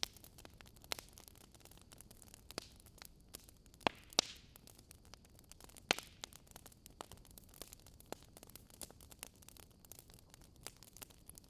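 Crackling fire: a steady stream of small crackles, with a few louder pops about four and six seconds in, one followed by a brief hiss.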